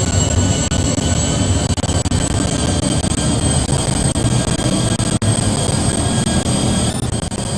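Jet engines of an Airbus A380 running loudly: a dense, steady rumble with a high whine held on top.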